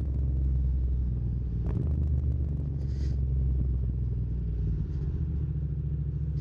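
Yamaha MT-07's parallel-twin engine running steadily under way, a deep even engine note with no change in revs.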